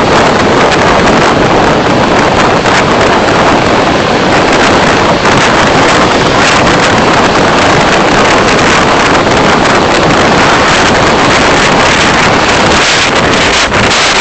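Loud, steady roar of road and wind noise from a vehicle driving, with wind buffeting the microphone.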